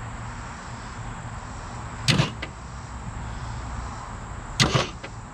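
Starter motor cranking a Ford Galaxie V8 that has just come unstuck from being seized, turning it over steadily with the spark plugs out. Two short, louder chirps come about 2 and 4.5 seconds in.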